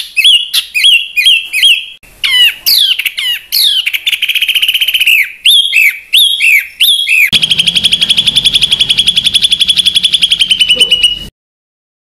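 Recorded songbird song, spliced from several clips: loud repeated whistled notes about two a second, then a run of sharp downward-sweeping notes. About seven seconds in comes a long, fast, even trill, which cuts off abruptly into silence near the end.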